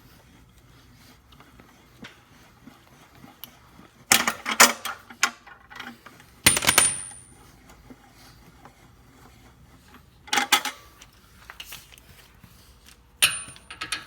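Metal tools and parts clinking and clanking against metal in four short bursts, two of them leaving a brief high ring.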